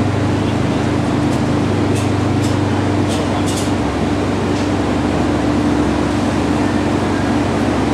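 Mitsubishi Lancer Evolution X's turbocharged four-cylinder running steadily at low speed on a chassis dyno, through an aftermarket turbo-back exhaust, with the drive wheels turning the rollers: a steady low drone, with a few faint clicks in the first half.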